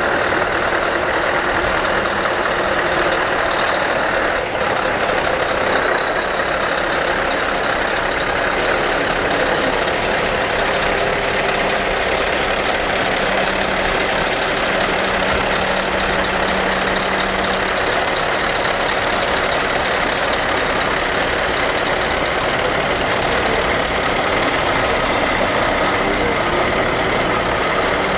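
Heavy trucks' diesel engines running steadily in a dense, continuous noise, with no single event standing out.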